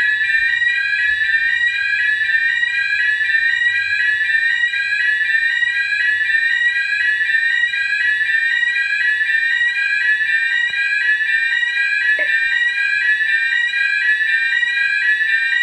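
Electronic alarm sounder going off continuously, a loud, rapidly repeating rising sweep tone that does not let up.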